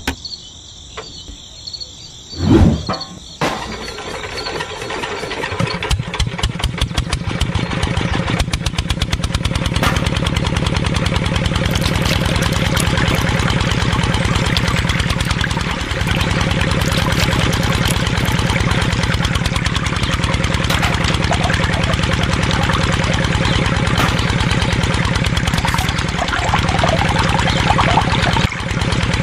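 Small single-cylinder engine chugging into life about four seconds in, its beats quickening for several seconds before it settles into a steady run, driving a belt-driven water pump. Background music and a loud knock come before the engine starts.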